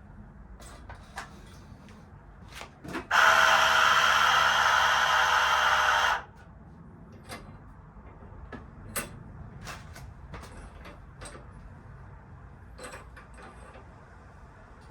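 Scattered clicks and knocks of parts and tools being handled in a workshop, and about three seconds in, a loud, steady power tool runs for about three seconds, then stops suddenly.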